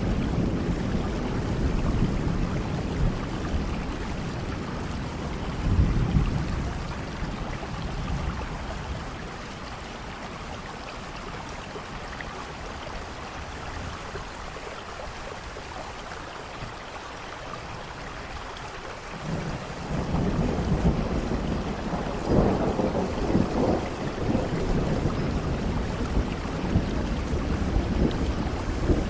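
Steady rain falling with rolling thunder. Rumbles come near the start and around six seconds in, then a quieter spell of rain alone, then a long rumble builds up about two-thirds of the way through and carries on.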